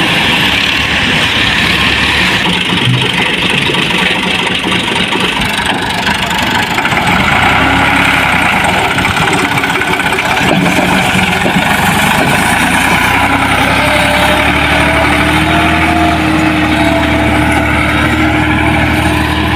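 Massey Ferguson 260 tractor's diesel engine running loudly and steadily, its note shifting a little as the revs change.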